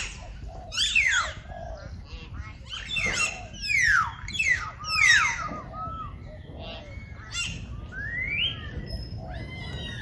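Birds calling: a run of sharp, clear calls that slide steeply down in pitch, several in quick succession, then a single rising call near the end.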